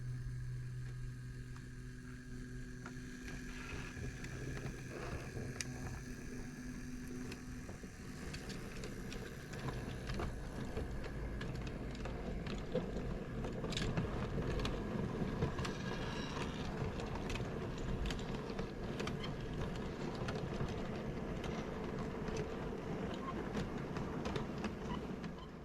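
Model railway locomotive running along the track with its goods train: a steady motor hum at first, then a louder running rumble with scattered wheel clicks that builds about halfway through.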